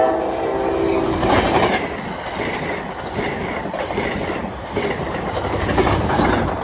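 Amtrak Downeaster passenger train passing close by. Its horn chord sounds until about a second in, then gives way to the steady rumble and clatter of the train's wheels on the rails.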